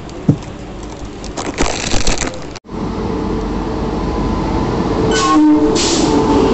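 Station platform clatter, then a sudden cut to a passenger train running at a platform: a steady rumble of wheels with held tones through it, growing a little louder.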